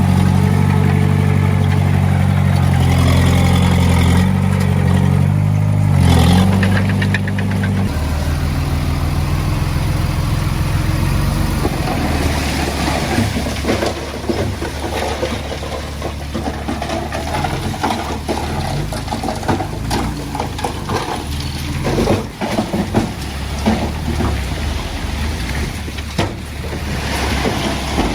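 Diesel engine of heavy earthmoving equipment running loud and steady, then dropping to a lower, quieter note about eight seconds in, with frequent knocks and rattles through the rest.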